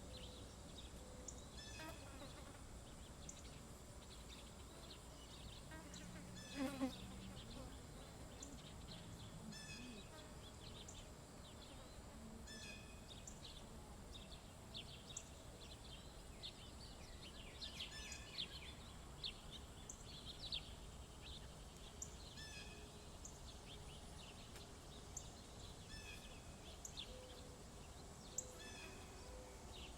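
Faint small songbirds chirping and calling, with short high notes repeated every second or two and a busier flurry of calls around eighteen seconds in. One louder, closer sound stands out about seven seconds in.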